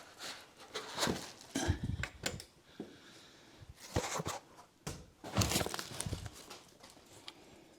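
Packing material being handled and pulled off: irregular bursts of rustling, crinkling and tearing, with a few sharp knocks.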